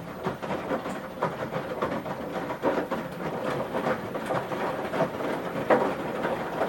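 Washing machine mid-wash, its drum turning the wet load so that the laundry and water slosh and thud with an irregular clatter.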